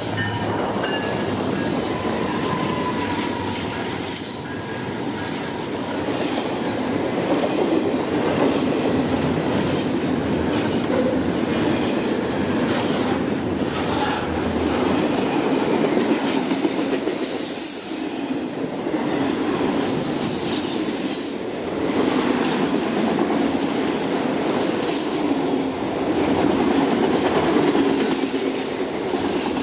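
CN freight train's cars rolling past on the rails: a steady heavy rumble with irregular wheel clicks over the rail joints and faint wheel squeal.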